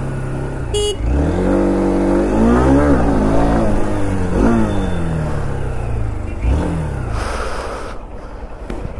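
Honda Unicorn 160's single-cylinder engine revving up and dropping back several times as the rider tries to lift the front wheel for a wheelie.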